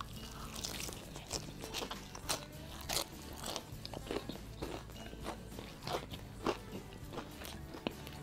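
Crunching and chewing of crispy KFC fried chicken coating: irregular sharp crunches, a couple every second, as a mouthful of the breaded chicken is bitten and chewed.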